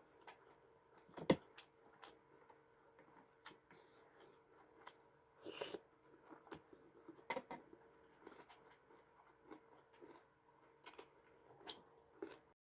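Close-up eating sounds: faint chewing and crunching with scattered mouth clicks, the loudest crunch about a second in, over a faint steady hum. The sound cuts off suddenly near the end.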